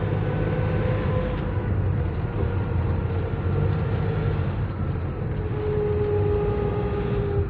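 Nissan NV350 van driving, heard inside the cabin: a steady low road and engine rumble with a thin whine running through it that slowly drops in pitch.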